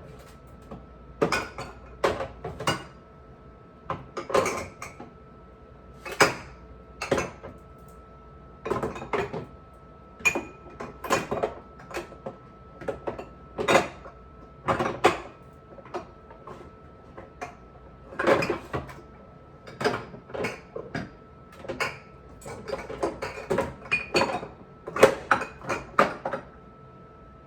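Dishes and containers being handled and set down: irregular clinks and knocks, about one to three a second, some with a short ring, over a faint steady hum.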